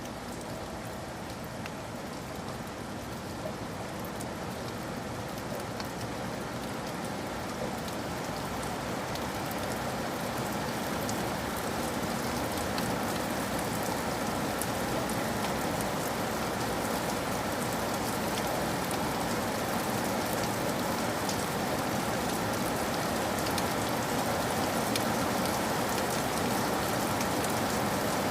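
Steady rain falling, with scattered drop ticks, gradually growing louder.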